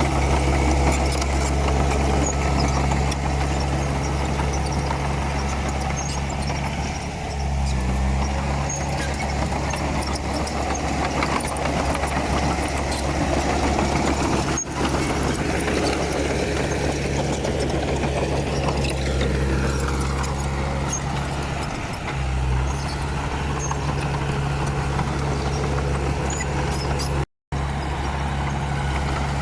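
Komatsu D31P bulldozer's diesel engine running steadily, its low note shifting briefly twice, with a momentary cut-out in the sound near the end.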